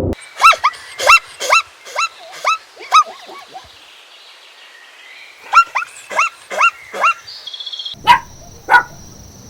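Small dog yapping: two quick runs of short, high-pitched barks, each dropping in pitch, a few seconds apart, then two more barks near the end.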